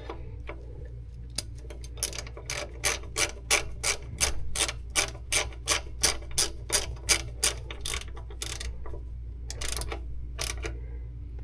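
Ratchet wrench clicking in a steady rhythm, about three clicks a second, as a bolt is tightened down; it pauses near the end and gives a few more clicks.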